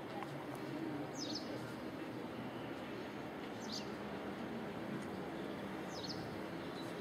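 A bird chirping three times, each a short call sweeping downward in pitch, about two and a half seconds apart, over a steady background hum.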